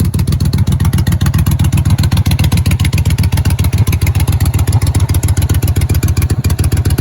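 1999 Yamaha Virago XV1100S's air-cooled V-twin running steadily on a cold start after heavy priming, with an even, rapid beat of firing pulses. Through its short ram intake it doesn't sound right to the owner, but okay for a cold day.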